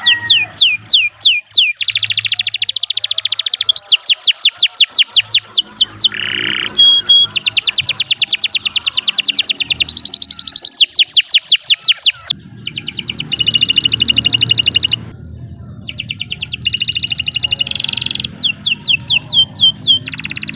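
Domestic canary singing long, continuous song: rapid trills of repeated downward-sweeping whistled notes. The bird switches phrases several times, with brief breaks between them.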